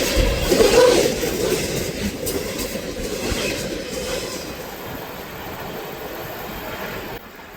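Freight train cars rolling past on the track with a clattering rumble that grows steadily quieter, dropping off suddenly about seven seconds in.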